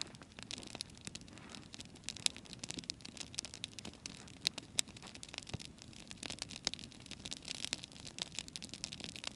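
Wood fire crackling, with irregular snaps and pops of burning wood over a low hiss.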